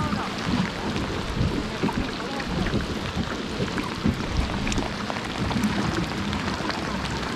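Steady rain falling on the sea around a kayak, a dense patter of small drop ticks over a low rumble.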